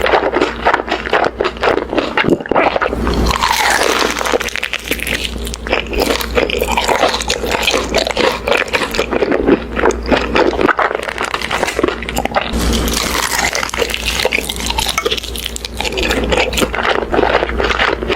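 Close-miked eating: continuous biting and chewing with dense crunching clicks and wet mouth sounds.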